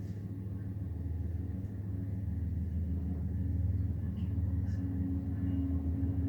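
Steady low diesel-engine rumble from the speaker of a DCC sound-equipped HO scale model locomotive, growing slightly louder.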